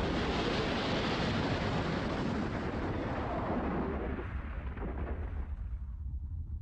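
Dramatised sound effect of an airliner crashing into the ground and exploding: a loud noisy rumble that slowly dies away, its high end fading first, mostly gone about six seconds in.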